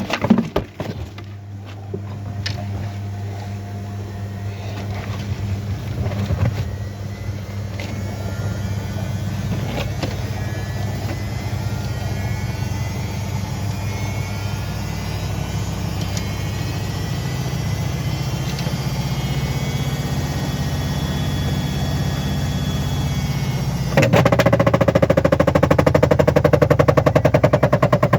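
Washing machine spinning up: a steady motor hum that slowly grows louder, with faint whines rising in pitch. Near the end a sudden, much louder rapid knocking and rattling sets in.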